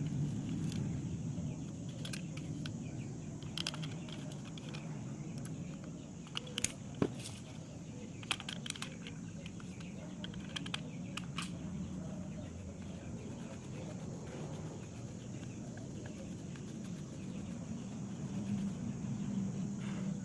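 Steady low background rumble with scattered small clicks and taps, a few sharper ticks in the middle.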